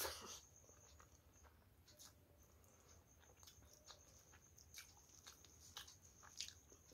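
Quiet close-up eating sounds: a louder burst as a handful of rice and curry goes into the mouth, then chewing with scattered small mouth clicks, and soft sounds of fingers mixing rice on the plate.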